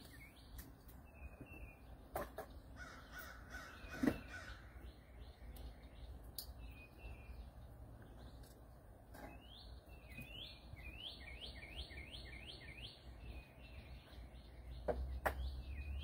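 Faint birdsong: a songbird repeating short, falling whistled notes in quick runs, with a few soft knocks scattered through.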